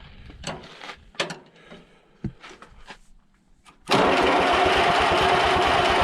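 A few small knocks and clicks, then about four seconds in the starter suddenly cranks the old Allis-Chalmers tractor engine: a loud, steady, fast-pulsing churn. It is a start attempt on ether.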